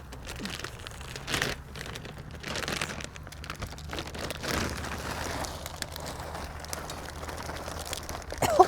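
Stir-fry meat, vegetables and noodles sizzling in a cast iron pan over a campfire, with repeated short stirring scrapes. A brief louder sound comes just before the end.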